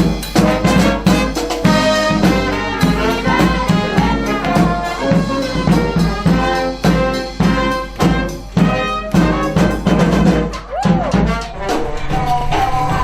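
Marching brass band of trumpets and trombones playing an upbeat tune over a steady drum beat.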